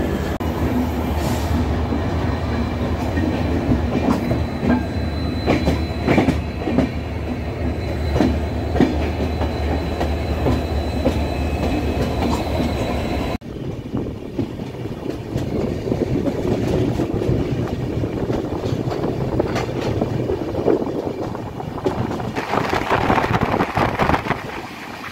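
Diesel locomotive running on a nearby track, a steady low engine hum with repeated clicks of wheels on rails. After a sudden cut about halfway through comes the rumble and rattle of a moving passenger train, heard from an open carriage window, which grows louder near the end.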